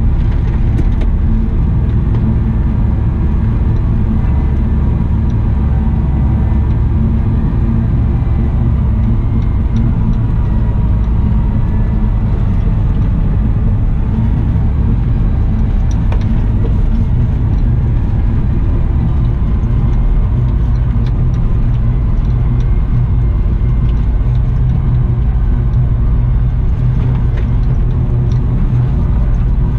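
Diesel engine of a Cat 972M XE wheel loader running steadily under work, a constant low rumble.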